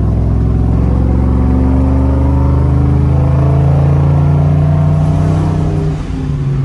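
2002 Ford Mustang GT's 4.6-litre V8 heard from inside the cabin, accelerating with its pitch rising steadily for about five seconds, then easing off near the end.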